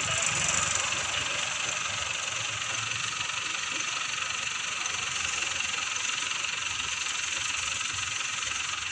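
Escort Hydra crane's diesel engine running steadily, with a steady high hiss over it.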